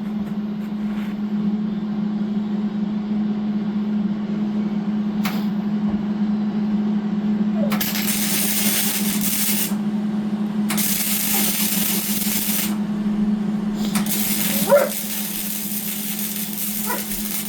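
Welding an exhaust hanger onto the pipe: three bursts of crackling, hissing arc, the first two about two seconds each and the last nearly four, over a steady low hum.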